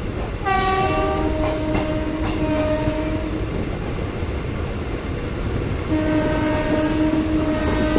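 Train horn sounding two long blasts of about three seconds each, the first starting slightly higher and settling lower, over the steady running noise of a moving passenger train.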